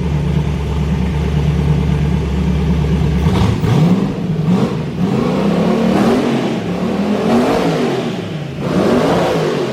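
Twin-turbo Camaro engine idling, then blipped repeatedly from about three seconds in, its pitch rising and falling about five times. The new wastegates have no dump pipes fitted, so they vent straight to open air.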